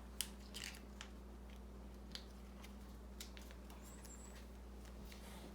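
A plastic single-serve peanut butter packet being squeezed out by hand: scattered faint small clicks and crinkles.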